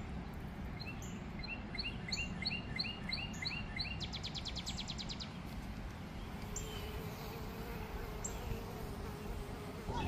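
A songbird singing a run of quick rising chirps, about three a second, that ends in a fast trill. Under it is a steady low outdoor rumble.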